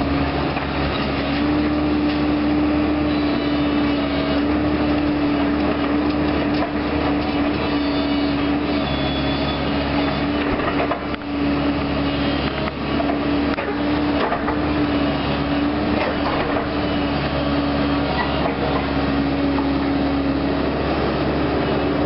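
Heavy demolition machine running steadily: a constant hum over its diesel engine, with scattered clanks and knocks throughout.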